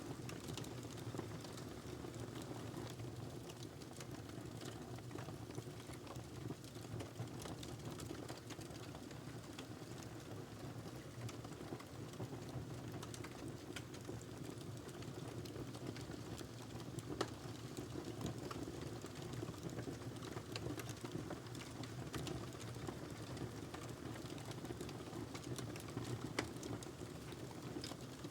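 Wood fire burning in a fireplace: a steady low rumble of flames with continual small crackles and an occasional louder pop.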